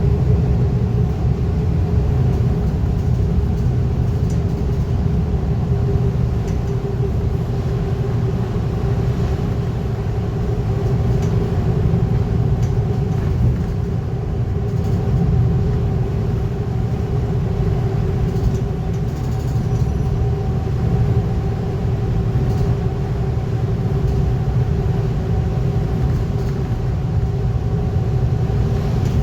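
Scania N230UD double-decker bus with ADL Enviro 400 body, heard from inside while cruising at a steady speed: a deep engine and road rumble with a steady whining tone over it and no big changes in engine speed.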